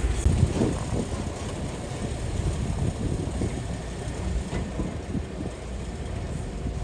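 Excavator's diesel engine running at work, with a low rumble and scattered irregular knocks and clanks.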